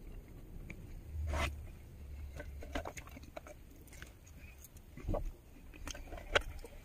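Scattered rustling, scraping and small clicks of things being handled, with louder sharp knocks about a second and a half in, around five seconds in and just past six seconds.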